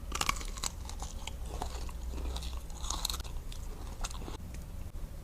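Close-up eating of a Dubai chocolate bar: crisp crunches as it is bitten into right at the start and again about two and a half and four seconds in, with chewing between them.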